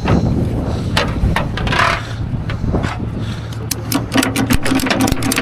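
Idling tow truck engine rumbling steadily under scraping and knocking as the motorcycle is handled, then a fast run of sharp mechanical clicks from a little under four seconds in.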